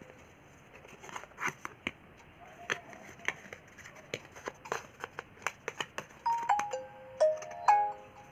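Light clicks and taps of a new phone and its packaging being handled. Near the end, a short electronic chime of a few stepped notes.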